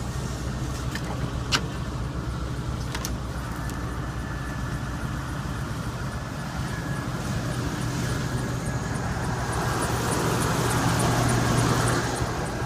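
2011 Chevrolet 3500HD's 6.0-litre gas V8 idling steadily as it warms up after a cold start at about −25 °C. There are a couple of light clicks early on, and a rushing noise swells over the second half.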